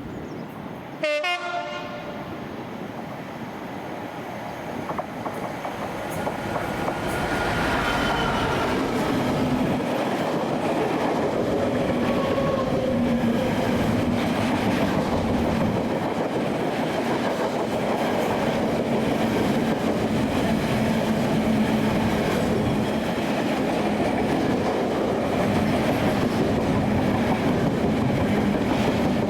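A train horn sounds one short blast about a second in, its pitch falling quickly. Then a train approaches and passes, its running noise growing louder over a few seconds and staying loud, with wheels clattering over the rail joints.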